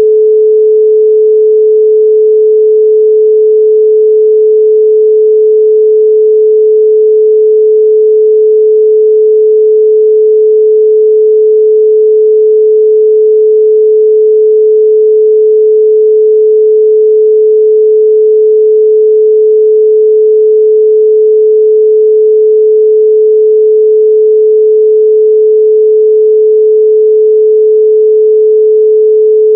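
A 432 Hz pure sine tone held steady and loud, with no change in pitch or level.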